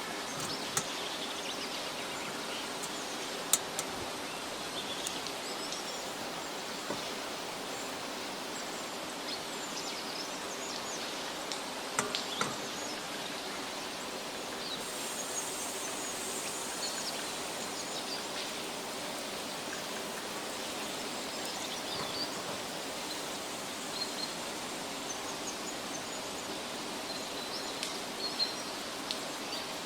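Forest ambience: a steady outdoor hiss with scattered short, high bird chirps and a few sharp clicks, one about three and a half seconds in and another around twelve seconds.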